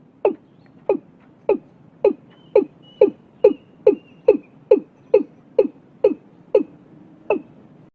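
Watercock calling: a series of about fifteen deep notes, each sliding downward in pitch. They speed up to about two a second, slow again, and cut off suddenly near the end.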